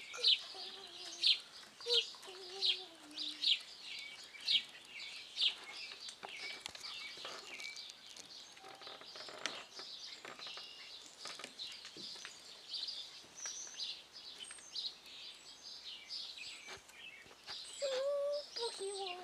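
Songbirds calling: one bird repeats a sharp high chirp about once a second for the first five seconds, then softer scattered chirps and short trills go on.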